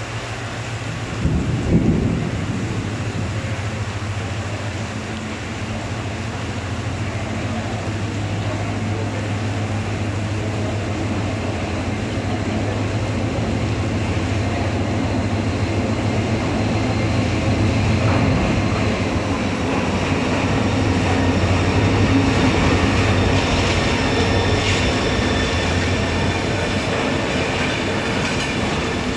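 Heavy rain hissing steadily on the station platform and its roof while a diesel-hauled Bangladesh Railway intercity train draws in. There is a low thump about two seconds in. The train's engine and wheels grow louder through the middle, with high squealing from the train near the end as the coaches roll past.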